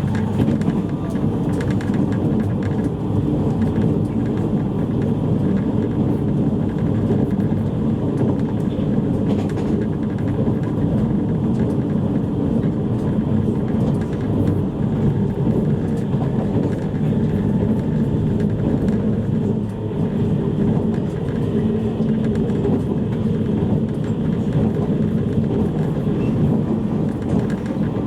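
Steady running noise of a JR East E653-series electric train, heard inside the passenger cabin of a motor car: a low, even rumble of wheels on rail and running gear, with faint steady hums from the drive equipment.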